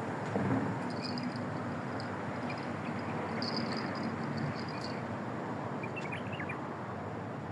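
Steady outdoor background noise, with thin high chirps coming and going for the first few seconds and a short run of chirps about six seconds in.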